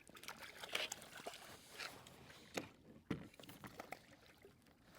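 Faint water sloshing and trickling against a kayak, with scattered small clicks and knocks and one heavier low knock about three seconds in.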